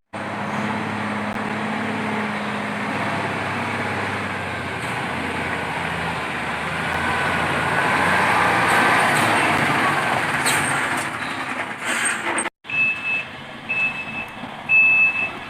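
Toy construction vehicle running with a steady noisy motor sound; after a sudden cut near the end, its reversing alarm beeps about once a second.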